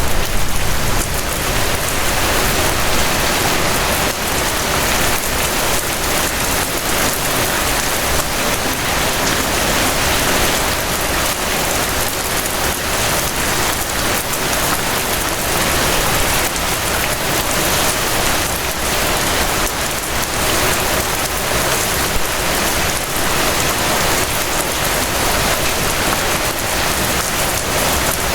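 Steady rain falling: an even, unbroken hiss of many drops on surfaces.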